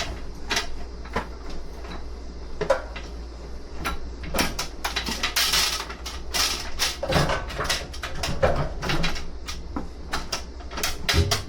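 Irregular knocks and clicks of things being handled and set down, with a short rustling noise about halfway through, over a steady low hum.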